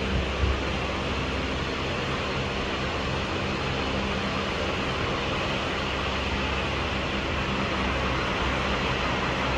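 Jet airliner engines, a steady rumble and rush of noise with a low hum underneath.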